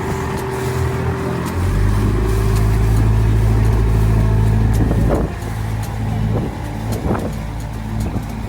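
A motor vehicle's engine, a steady low rumble that is loudest for a few seconds and then drops away about five seconds in, followed by a few short knocks.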